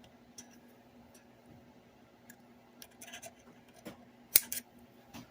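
Light scratching and small clicks of hands working stitching thread under the leather wrap of a toolbox handle, with one sharp click about four seconds in, over a faint steady hum.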